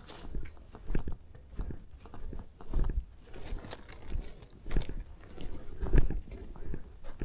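Footsteps of a person walking on a forest trail: crunching steps at a steady walking pace, about one to two a second.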